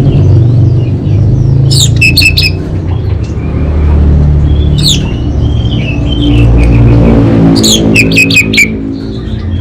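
Orange-headed thrush singing: clusters of sharp, rapid high notes about two, five and eight seconds in, with softer twittering between them. Underneath runs a loud, steady low drone.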